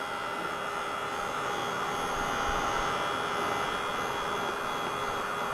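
Handheld electric hot-air dryer running steadily with a fan whine, blowing over freshly sprayed ink to dry it.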